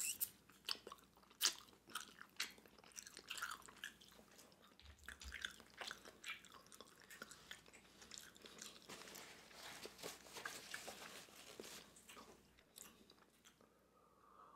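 Faint, close-miked chewing of steamed clams in butter sauce: a run of wet mouth clicks and smacks. It dies away over the last second or two.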